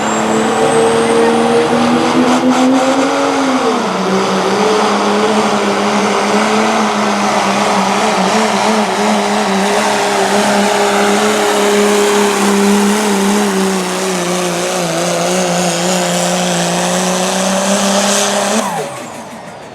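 Diesel pickup truck of the 2.6 turbo class running at full throttle while pulling a weighted sled, with a high turbo whistle rising over the engine early on. The engine note dips about three and a half seconds in, sags lower as the pull goes on, then falls away suddenly near the end as the throttle is lifted.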